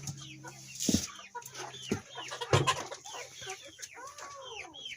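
Chickens clucking and squawking, many short calls in quick succession, over a steady low hum.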